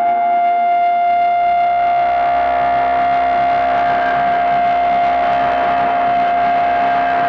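Harsh-noise feedback from a Gamechanger Audio Light Pedal run through a Fairfield Circuitry Hors D'oeuvres feedback loop: a loud, distorted drone held on one steady pitch, with overtones over a rough noisy haze.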